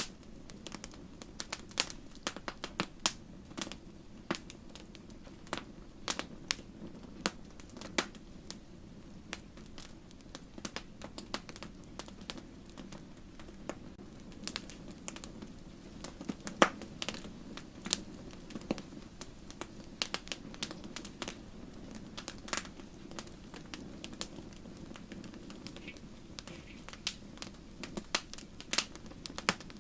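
Campfire crackling: a steady low rumble of burning wood with many sharp, irregular pops and snaps, the loudest about halfway through.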